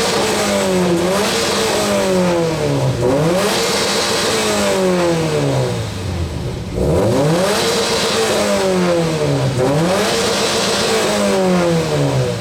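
Subaru WRX turbocharged 2.5 L boxer (flat-four) engine revved hard through its exhaust, the pitch climbing and falling again and again, about every two seconds, with a brief drop about seven seconds in.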